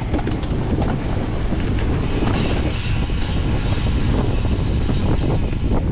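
Wind rushing over the microphone of a cyclocross bike being raced, with a steady run of knocks and rattles from the bike going over rough ground.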